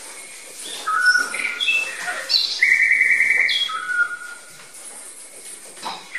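A bird singing: a phrase of clear whistled notes at different pitches, starting about a second in, with one longer held note in the middle, then fading to quiet near the end.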